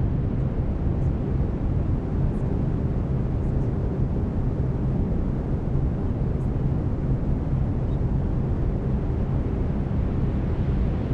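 Steady brown noise: an even, deep rushing hiss with most of its weight in the low end, and a faint low steady hum beneath it from the track's binaural delta-wave tones.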